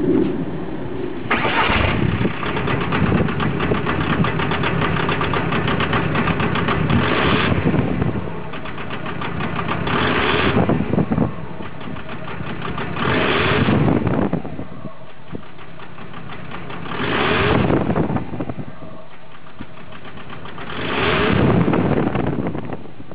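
Volkswagen Golf MK4's 1.9 L four-cylinder TDI diesel engine idling roughly, its sound swelling and falling back about every three to four seconds.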